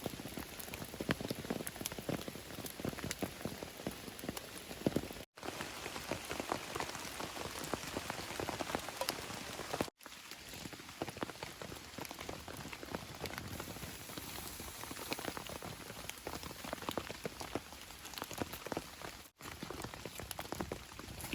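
Steady rain falling, with many separate drops striking close by. The sound drops out completely for an instant three times.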